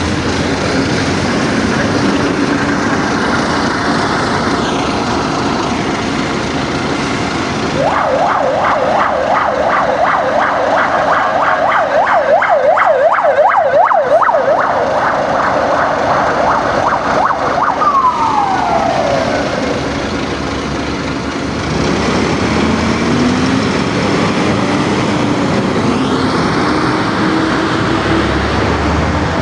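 An emergency vehicle's siren, about ten seconds of fast warbling yelp that then winds down in a falling glide. Underneath runs a city bus engine, whose note climbs in the last several seconds as the bus pulls away.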